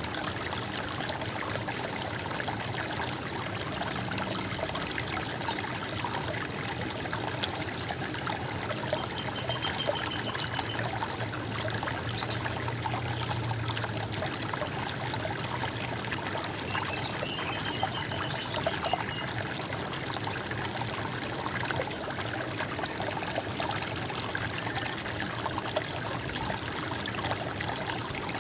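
Running water trickling and gurgling steadily, with two faint short bird trills, about a third and about two thirds of the way in.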